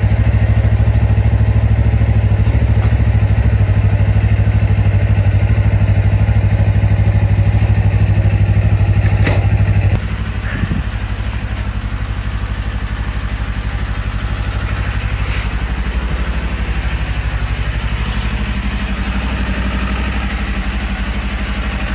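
Kawasaki Ninja 500 parallel-twin engine idling steadily on a cold start, still cold enough that the temperature gauge has not registered. About ten seconds in, it suddenly gets quieter and then runs on evenly, with a brief click or two.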